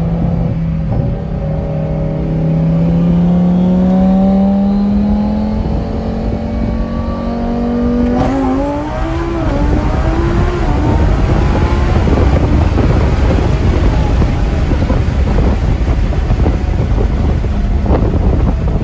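Twin-turbo Lamborghini Huracán's V10 running under load, its note climbing slowly and steadily for about eight seconds. It then gives way suddenly to a loud rushing noise, with the engine note wavering up and down beneath it.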